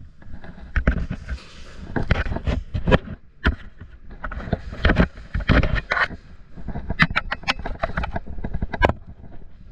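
Scattered sharp snaps and knocks over rustling and scraping, with a quick run of about five sharp clicks a second near the end: airsoft guns firing and BBs striking during play, amid the player's movement.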